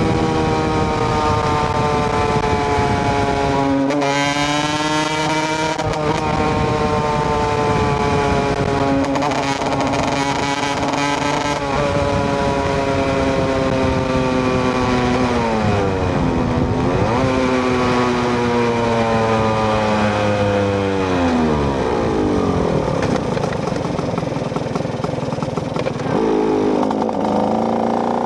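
KTM EXC 125 two-stroke single-cylinder motorcycle engine under way, its pitch sinking slowly for long stretches. The note jumps back up about 4, 10 and 17 seconds in, then drops steeply about 21 seconds in as the revs come down.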